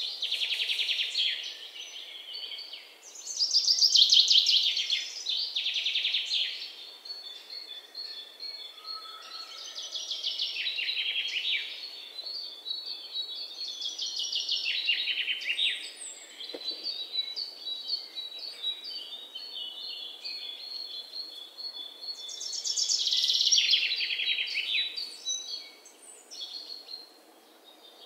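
Birds singing: rapid high trills and chirps that come in bursts of a second or two every few seconds.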